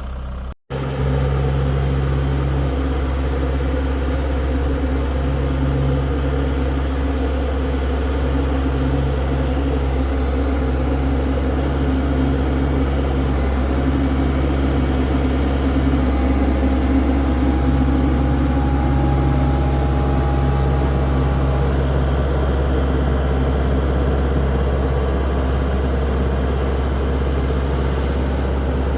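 Engine running steadily at a constant speed, with a brief dropout about half a second in.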